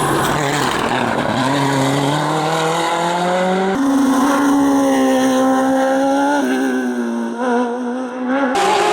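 Race car engine at high revs under hard acceleration on a hillclimb. The pitch climbs, jumps up in steps and drops back in steps, as at gear changes or cuts between cars.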